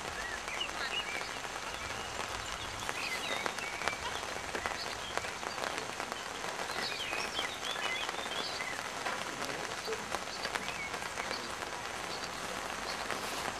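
Steady patter of light rain, a dense even hiss sprinkled with small ticks, with scattered faint high chirps over it.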